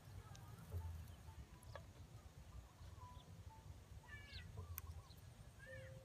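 Faint outdoor quiet with a few short chirping bird calls, some sweeping up or down in pitch, over a low steady rumble.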